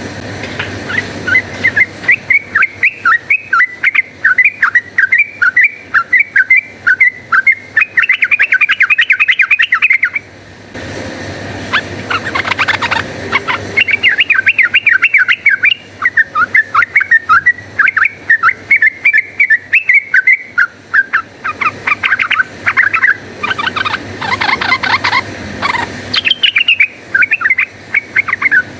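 Yellow-vented bulbul (trucukan) singing in fast chattering runs of short, bright notes, the rapid 'fighting' song; the runs break off briefly about ten seconds in and start again a few seconds later.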